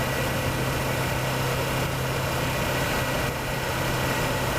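Kawasaki Versys motorcycle engine running steadily at cruising speed, with a constant low hum under a rush of wind noise.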